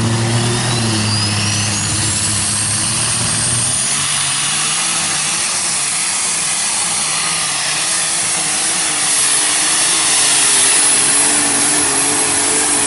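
Unlimited light super stock pulling tractor's engine running loud, with a thin turbo whistle that climbs steeply in pitch over the first few seconds. The engine note drops about four seconds in and grows louder again near the end.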